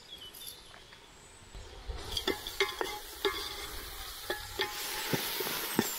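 Onions, green chillies and whole spices frying in ghee and oil in a cooking pot. A sizzle builds from about two seconds in, while a ladle knocks and scrapes against the pot as it is stirred.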